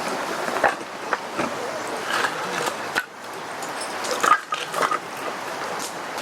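Wood campfire in a fire pit crackling, with irregular sharp pops and knocks over a steady hiss; the loudest pops come about four seconds in.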